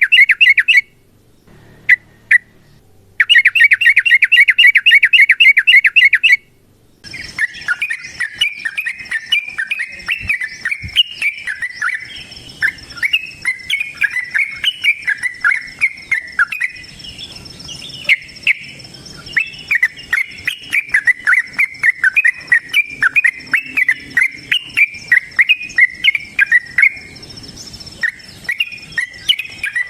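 Yellow-vented bulbul (trucukan) calling: two bursts of fast, evenly repeated chattering notes in the first six seconds. From about seven seconds it gives a long, unbroken run of busy chirping song over a faint steady high-pitched buzz.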